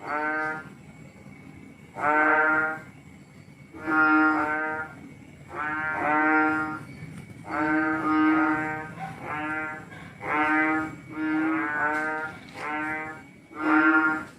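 Frogs calling: loud, nasal, bleating calls about half a second to a second long, repeated every second or two. Near the end they overlap and come faster, as several frogs call back and forth.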